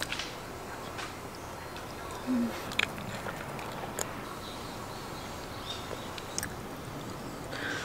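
Soft, quiet chewing of a cream-filled bread roll, with a few small mouth clicks and a short low hum about two and a half seconds in.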